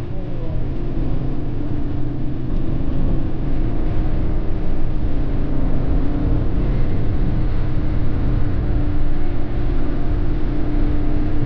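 Yamaha XT250 motorcycle engine running steadily while being ridden on tarmac, its note rising a little as it goes.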